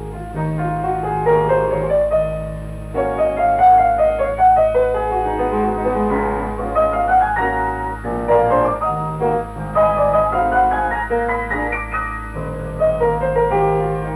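Piano music with quick rising and falling runs of notes over a steady low hum.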